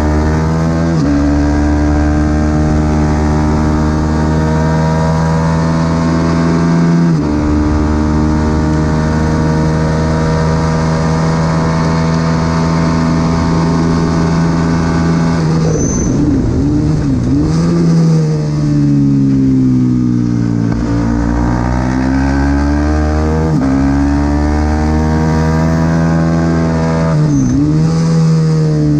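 Supersport 300 racing motorcycle engine running hard at high revs, its note holding steady for several seconds at a time with sudden steps in pitch at gear changes. About halfway through, the revs drop and wobble through a run of downshifts, then climb again as it accelerates, with another quick dip near the end.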